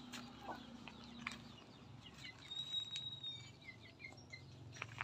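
Faint bird calls, a run of short chirps and a brief whistle about midway, over a low hum with a few light clicks.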